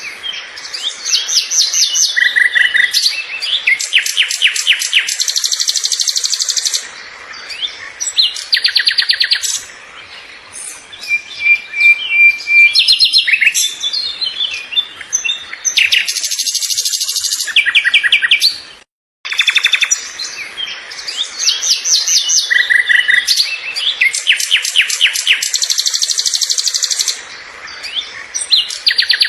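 Songbirds singing: loud, repeated phrases of rapid chirps and trills. A momentary break comes about two-thirds of the way through, after which much the same run of phrases starts over.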